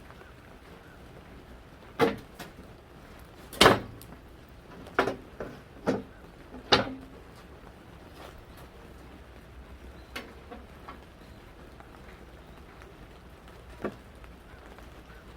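A series of sharp knocks and clanks of hard objects: two loud ones about two and three and a half seconds in, a quick cluster a little later, then a few fainter taps spread out.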